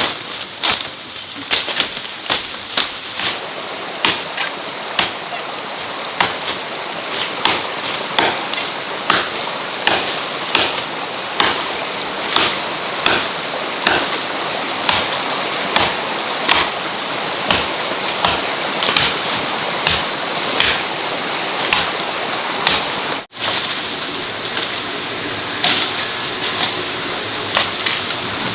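Repeated sharp strikes, about one and a half a second, over a steady rushing noise; the sound cuts out for an instant about two-thirds of the way through.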